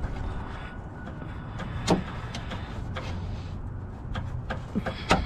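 Scattered sharp clicks and knocks of car parts being handled and fitted, over a steady low rumble. The clearest knocks come about two seconds in and near the end.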